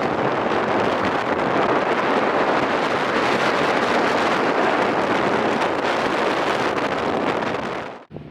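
Loud wind buffeting the camera microphone on a fast-moving rigid inflatable boat, with the boat's engine running low underneath. It cuts off suddenly near the end.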